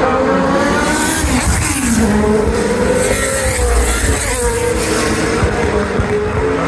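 1980s Formula One racing engines at speed, their high engine note falling and rising again several times with the revs.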